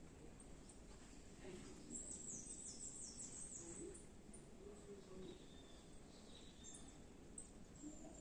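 Near silence: a faint outdoor background, with a bird's quick series of high, falling chirps about two seconds in and a few faint high notes later.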